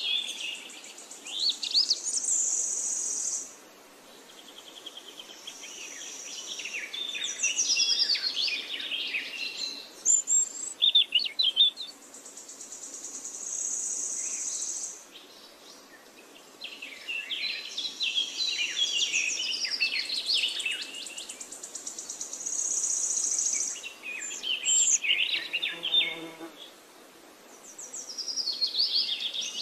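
Birds chirping and singing in phrases of quick, high calls and trills, with short gaps between phrases.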